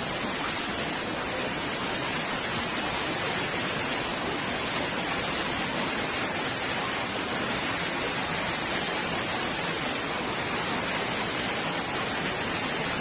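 Steady, even rush of storm water at constant loudness, with no distinct impacts standing out.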